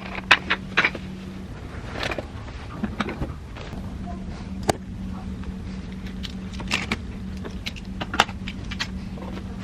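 Scattered clicks, clinks and light knocks of small household items being picked up and put away, over a steady low hum.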